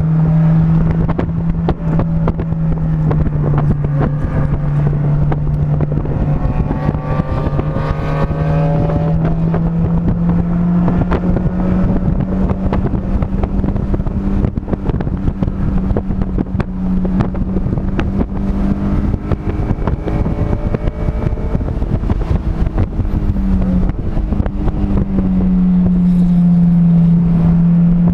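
Vehicle engine running hard at speed, heard onboard with heavy wind noise. The engine note holds mostly steady and climbs slowly, drops briefly about 23 seconds in, then rises again.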